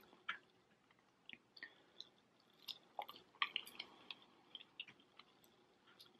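Faint, close-up chewing: soft, irregular wet clicks and smacks of a mouth eating takeaway chips.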